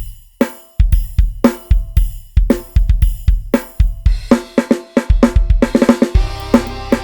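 Music: a sampled drum kit from Addictive Drums 2 opens a Thai lai hae procession groove with steady kick, snare and cymbal hits. About four seconds in, more instruments join and the playing gets busier. About six seconds in, a sustained bass line comes in underneath.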